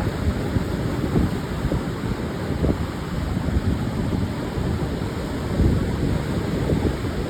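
Pacific surf washing onto a sandy beach in a continuous noise, with wind buffeting the microphone in irregular low gusts.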